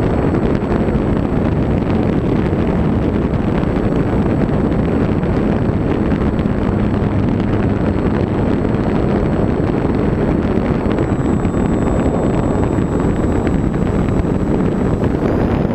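Onboard sound of an electric RC aerobatic plane in flight: heavy wind rush over the camera microphone with the motor and propeller running underneath. A thin high motor whine steps down in pitch about two-thirds of the way through and back up near the end, as the throttle changes.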